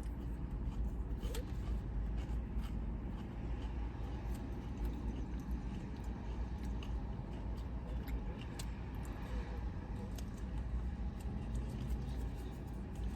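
Steady low rumble inside a parked car, with scattered light clicks and rustles of a yearbook being handled and its pages turned.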